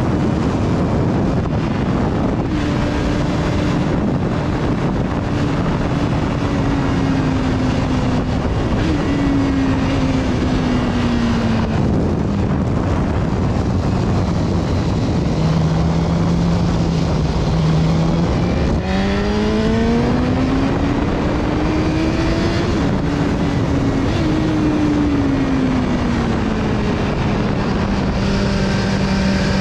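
BMW S1000RR's inline-four engine heard from on board over a steady rush of wind. The engine note sinks slowly through the first half, rises sharply about two-thirds of the way through as the throttle opens, then falls again and holds steady near the end.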